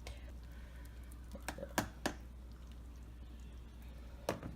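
A few sharp clicks and knocks of a kitchen utensil on cookware as boiled chicken is lifted from the pot into a bowl, three close together in the middle and one more near the end, over a steady low hum.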